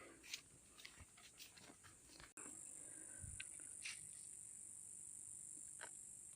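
Faint, steady high-pitched drone of insects such as crickets, with scattered light clicks and rustles.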